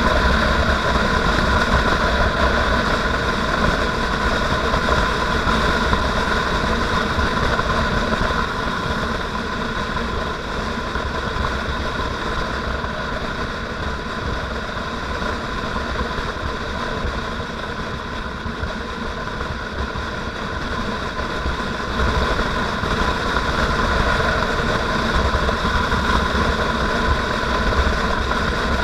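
Motorcycle engine running steadily on a ride, with a low rumble of wind on the microphone. It eases off a little about ten seconds in and picks up again after about twenty seconds.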